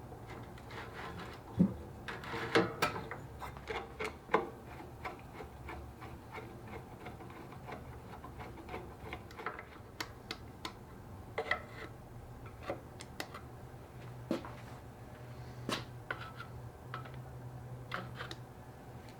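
Irregular light clicks and knocks, most frequent and loudest in the first few seconds, over a faint steady low hum.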